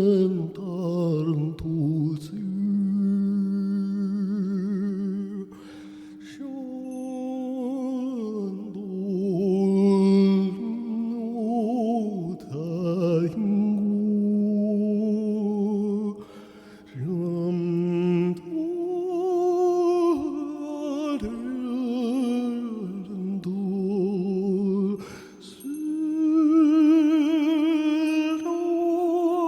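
Wordless, multi-layered vocal toning: several voices hold long notes with a wide vibrato, moving to new pitches every few seconds, over a steady drone tone.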